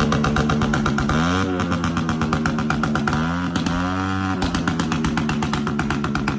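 Motorcycle engine idling with rapid, even firing pulses, blipped up in revs and back down twice.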